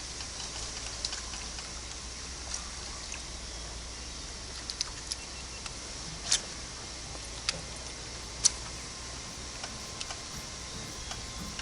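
Outdoor ambience on a boat: a steady low hum and a high hiss, broken by scattered sharp clicks and taps. The loudest clicks come about six, seven and a half and eight and a half seconds in.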